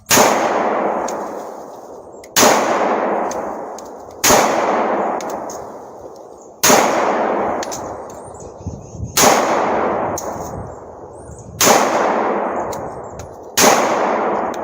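Seven gunshots, roughly two seconds apart, each with a long echoing tail.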